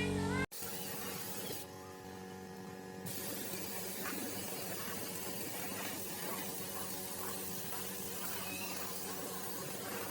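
A spray hiss that cuts off sharply about half a second in, followed by a steady low mechanical hum with a few faint, high chirps over it.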